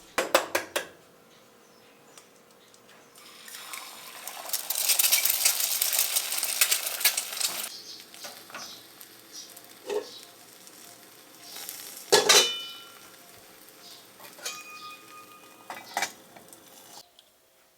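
Kitchen work: dishes and cutlery clinking and knocking, with a few seconds of loud hissing in the first half and ringing clinks of glass or ceramic later on.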